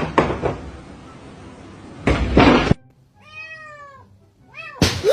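A cat meowing: three short calls, each rising then falling in pitch, in the second half. A loud half-second noise comes about two seconds in, and a sharp knock just before the last meow.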